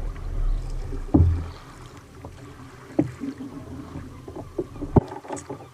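Sit-on kayak on rough sea: water slapping and knocking against the hull, with a low rumble at first and three sharper knocks about a second, three seconds and five seconds in.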